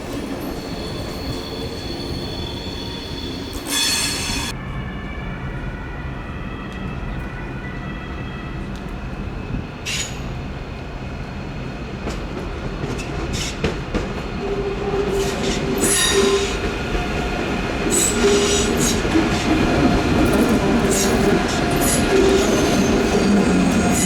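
Train wheels squealing as their flanges grind against the rails on tight curved track, with several steady high tones. A few sharp clacks come from the wheels over the rails, and the squeal grows louder over the second half.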